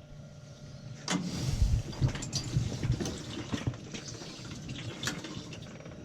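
Water pouring and splashing with knocks and rustles, starting about a second in.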